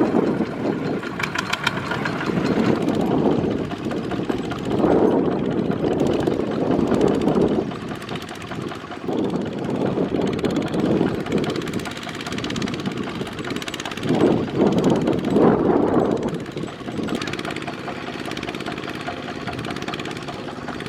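Mini tractor's Kubota single-cylinder diesel engine labouring in deep mud. The engine note swells and eases in surges every few seconds as it works under load.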